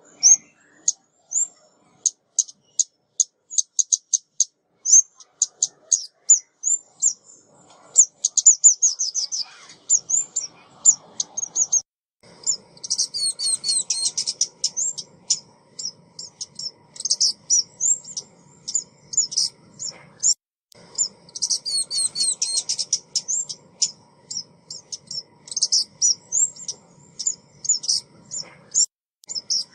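Lure recording of a female ốc mít, a small songbird, giving rapid high chirps and short trilled bursts that run on almost without pause. A faint low background noise sits under the calls from about ten seconds in.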